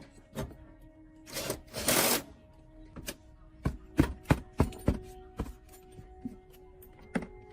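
Hand-tool work: two short rushing noises about a second and a half in, then a quick run of about a dozen sharp taps and knocks, with faint music underneath.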